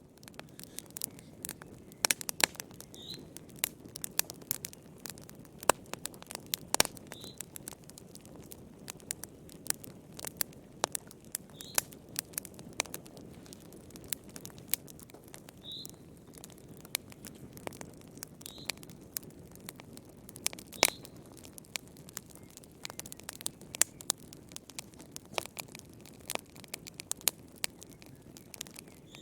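Wood fire crackling in a fireplace: irregular sharp pops and snaps over a steady low rush of flame, with a faint high peep every few seconds.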